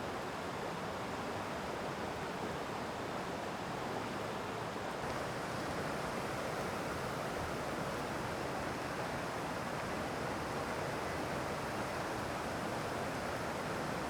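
Rushing water of a mountain stream, a steady, unbroken rush.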